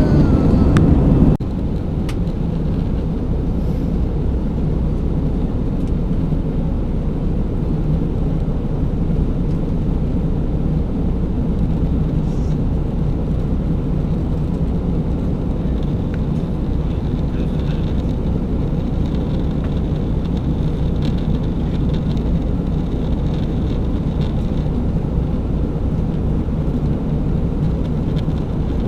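Steady engine and airflow drone inside the cabin of an Airbus A320 airliner in flight, at the start of its descent. It is a low, even roar with a faint hum, and it drops abruptly in level about a second in.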